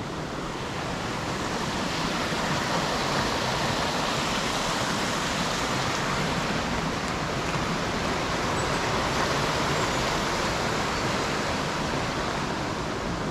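Water rushing steadily through a river lock's weir, a constant even noise that swells slightly over the first couple of seconds and then holds.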